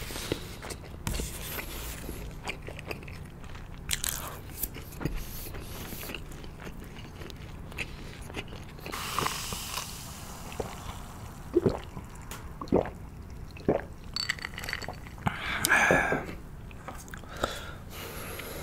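Close-miked eating: a person chewing sauced boneless fried chicken with soft crunches and wet mouth sounds. About halfway through he drinks from a glass, with swallowing sounds, and chewing and mouth noises carry on after.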